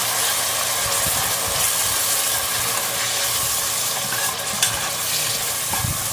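Ground chili spice paste sizzling steadily as it fries in hot oil in a metal pot, stirred with a metal ladle.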